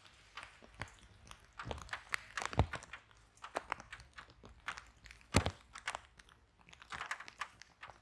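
Wood fire burning in a fireplace, crackling with irregular sharp pops and snaps over a low rumble of flame. The loudest pops come about two and a half seconds in and again a little past five seconds.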